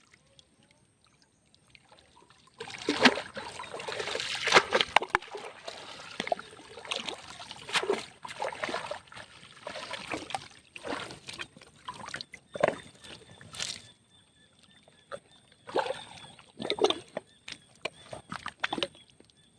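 Water splashing and sloshing as a wet cast net and its catch are handled over the river. It starts about two and a half seconds in, is heaviest for the next few seconds, then breaks into scattered short splashes and knocks.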